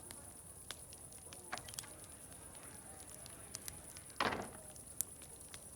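Wood fire crackling, with irregular sharp pops and snaps and one louder crackling burst about four seconds in, over a steady high-pitched hiss.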